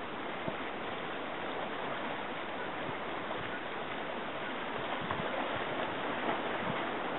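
Steady rushing noise of sea water and wind at the harbour edge, with a few faint knocks.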